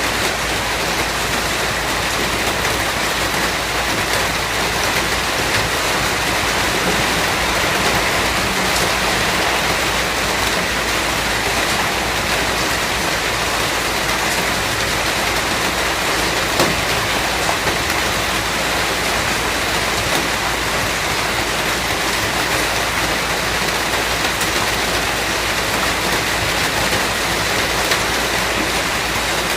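Steady, heavy rain falling, an even dense hiss with the odd louder drop tick.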